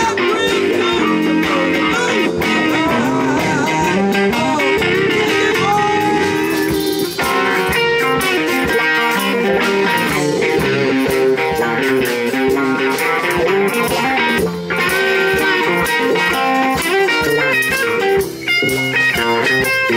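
A live band playing an instrumental blues passage, with an electric guitar playing bending lead lines over the band.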